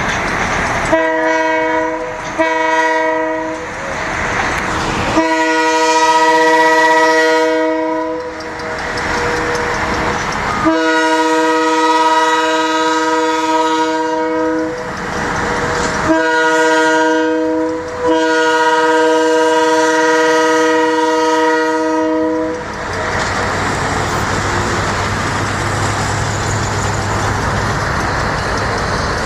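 Diesel locomotive's multi-note air horn blowing two short blasts, then long, long, short, long: the grade-crossing signal. The train rumbles along between the blasts and runs on after the last one ends.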